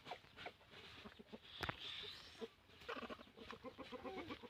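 Scattered short clicks and taps, with one sharp click a little over a second and a half in, and faint animal calls in the second half.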